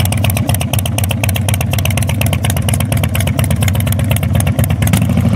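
Harley-Davidson Super Glide's V-twin engine idling steadily, a loud, even run of firing pulses with no revving.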